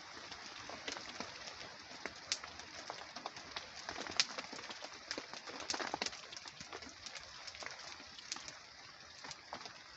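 Steady rain hissing on a tarp, with many sharp, irregular pops and crackles from a wet wood fire.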